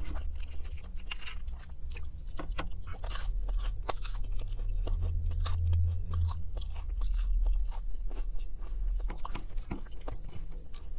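Close-miked chewing of McDonald's chicken nuggets: the jaw works steadily, and the breaded coating gives many small, sharp crunches.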